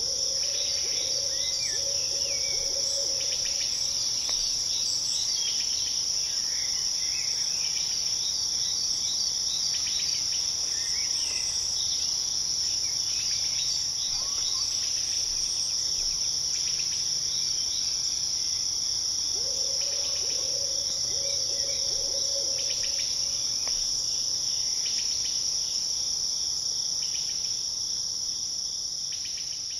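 Steady night chorus of crickets with scattered chirps over it. A lower trilling call comes in twice, near the start and again about two-thirds through. The chorus fades out at the end.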